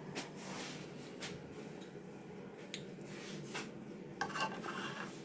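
Faint handling noise from the Scheppach BTS700 belt and disc sander, which is not running: a few light clicks and knocks with rubbing, and a short scrape about four seconds in.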